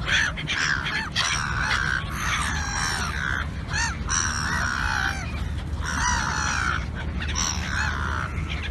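A crowd of birds calling over one another at feeding time, short squawking calls overlapping one after another, over a steady low rumble.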